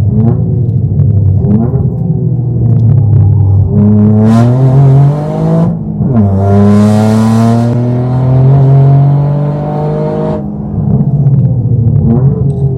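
Toyota GR Yaris's turbocharged 1.6-litre three-cylinder engine under hard acceleration. The revs climb, drop sharply at a quick upshift about six seconds in, climb again and fall away when the driver lifts off near the ten-second mark.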